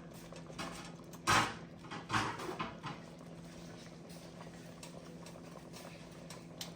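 A pot lid clattering against cookware about a second and a half in, followed by a few lighter knocks, over a steady low hum.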